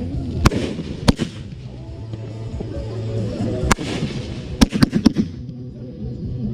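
Fireworks going off: about six sharp bangs, one about half a second in, another near a second in, then a quick cluster of several between about three and a half and five seconds, over music playing steadily.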